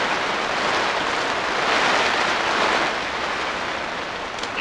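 Heavy rain drumming on the plastic sheeting of a polytunnel as a steady, dense hiss that swells and eases a little.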